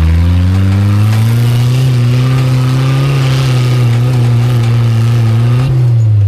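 Old Jeep Cherokee's engine revving hard under load, its pitch climbing over the first second or so and then held high and steady, starting to drop near the end as the throttle comes off. It is pushing at an off-road obstacle it fails to clear for lack of a front locker.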